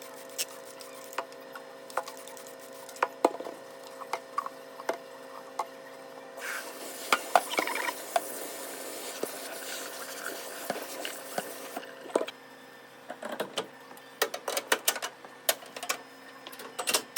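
Kitchen cleaning handling sounds: rubbing, and parts of a range hood knocking and clicking against each other, over a steady hum. In the middle, a hiss runs for about five seconds.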